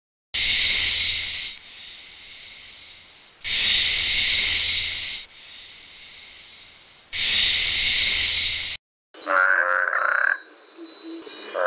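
A high call repeated three times, about every three and a half seconds, then a toad croaking in two pulsed bouts from about nine seconds in.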